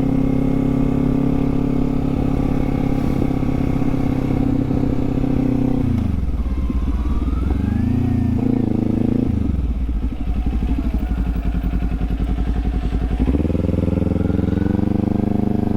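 Kawasaki Z400 parallel-twin engine with an aftermarket LeoVince exhaust, running at a steady pitch while riding; about six seconds in the revs drop and it runs low for several seconds, then the revs rise again near the end.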